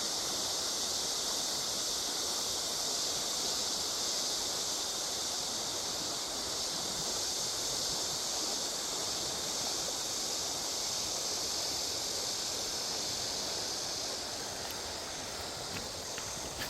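Steady rush of a rain-swollen river with a continuous high-pitched insect chorus over it; a few faint clicks near the end.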